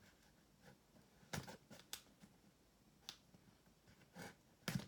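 A few faint, scattered clicks and rustles of a shipping box and its packing being handled and opened.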